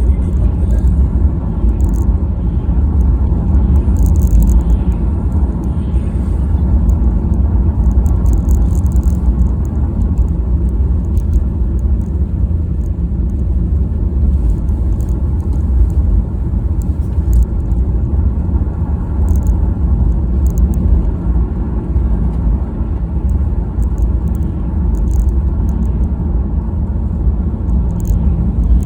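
Car driving, a steady low rumble of engine and road noise with scattered faint high ticks.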